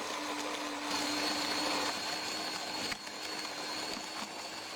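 De'Longhi Magnifica bean-to-cup coffee machine's built-in grinder running steadily, a whirring motor sound with a thin high whine that joins about a second in.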